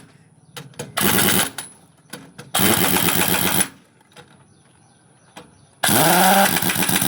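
A motor run in three short bursts, its pitch rising as each burst starts, with a few sharp clicks in the gaps between.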